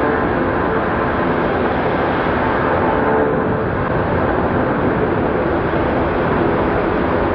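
Airbus A340-300's four CFM56 turbofan engines at high takeoff power: a loud, steady jet rumble with a faint whine.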